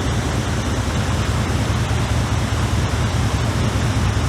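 Fishing boat under way: a steady low engine drone beneath a constant rush of water and wind.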